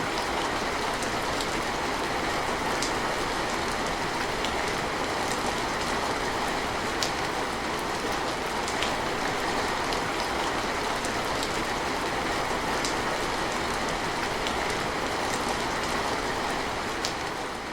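Steady rainfall, a dense even hiss with scattered sharper drop ticks.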